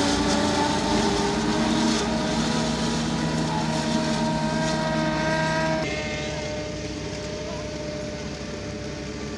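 Massey Ferguson tractor's diesel engine running steadily under load. About six seconds in, the sound drops in level and its pitch pattern changes.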